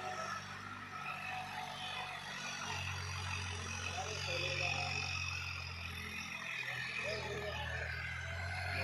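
Tractor diesel engine running steadily with a low drone.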